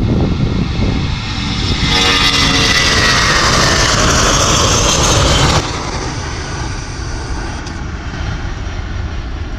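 Jet airliner engines passing close: a loud roar with a strong rising hiss, which cuts off abruptly about five and a half seconds in to a quieter, steady jet rumble.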